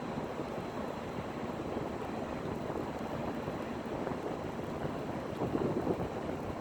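Wind blowing across the microphone: a steady rushing noise with a few stronger gusts near the end.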